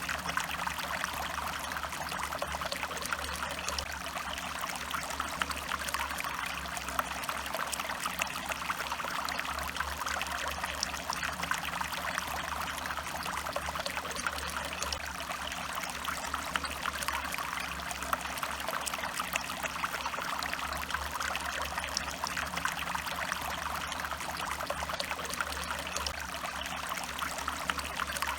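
A stream running, water trickling and pouring steadily without a break.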